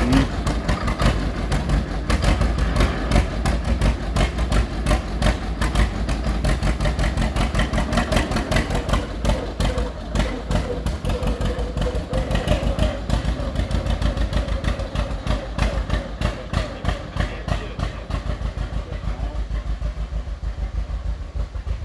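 John Deere Model G tractor's big 6.7-liter two-cylinder engine running with its loping beat of separate firing pulses, which slow down over the last few seconds.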